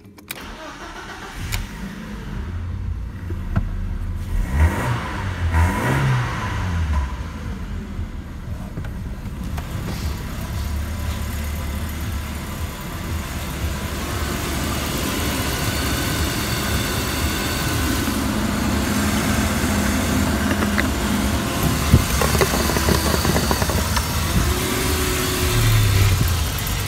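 BMW E36's 1.6-litre four-cylinder 164E2 (M43) engine starting up, revved up and down a couple of times a few seconds in, then settling to a steady idle. Near the end it idles with the oil filler cap off.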